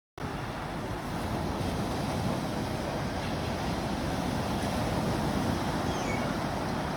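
A steady rushing noise that cuts in suddenly at the start, with a few faint high chirps near the end.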